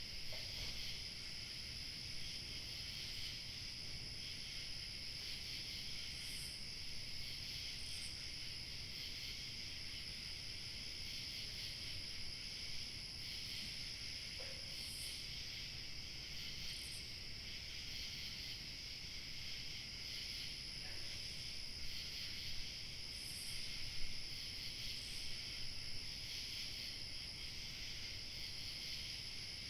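Steady chorus of crickets chirping, with a few brief, higher chirps standing out now and then, over a low rumble of light wind.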